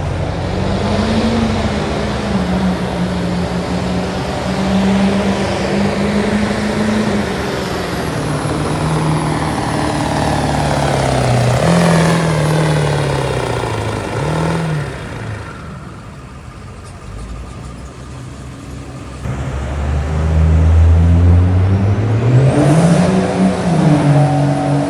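Diesel pickup truck engine revving hard under load, its pitch rising and falling, easing off and going quieter for a few seconds past the middle, then revving up loudly again near the end.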